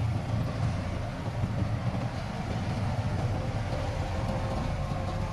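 Heavy diesel earthmoving machinery running steadily: a low, even engine rumble with no clanks or impacts standing out.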